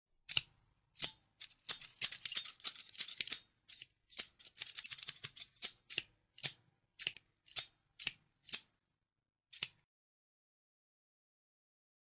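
Scissors snipping: a few single snips, then two runs of rapid cuts, then single snips about every half second, stopping about ten seconds in.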